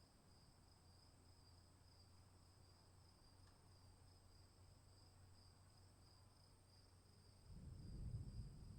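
Crickets chirping faintly in a steady, fast-pulsing high trill. About seven and a half seconds in, a low rumble rises beneath them.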